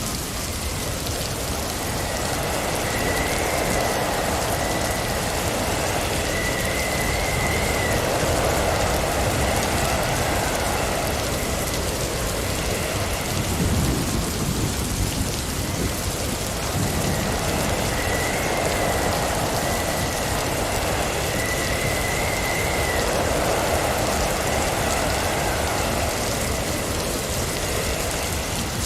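Blizzard wind howling over a steady rush of noise, with faint wavering whistles; the gusts swell and ease in a cycle that repeats about every fifteen seconds.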